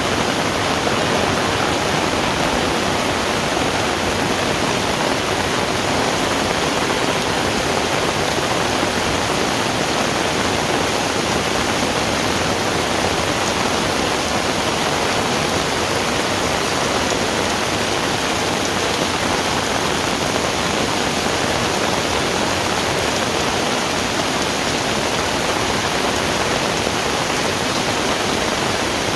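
Heavy rain falling steadily, a dense, even hiss of rain with no let-up.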